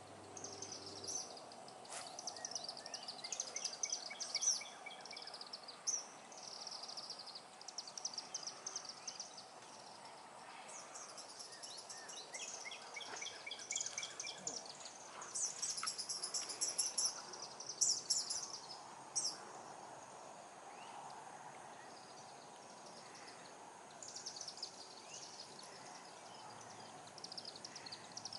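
Many short, high chirps and trills from small animals, coming in runs of a few seconds, over a faint steady background hiss.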